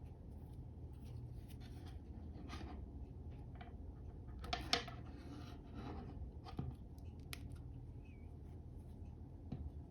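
Parts of an ultralight fire pit being handled and fitted together during assembly: scattered light clicks and scrapes, with a louder clatter about four and a half seconds in, over a low steady hum.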